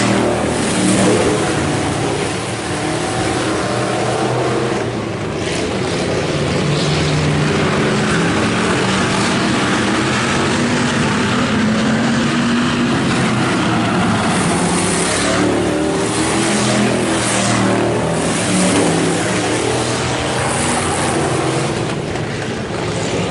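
IMCA Hobby Stock race cars running on a dirt oval: several engines at high revs passing, their pitches rising and falling as they go by.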